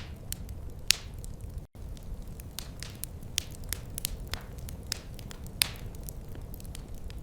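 Wood fire crackling: irregular sharp pops and snaps, several a second, over a low steady rumble. The sound cuts out for an instant about a second and a half in.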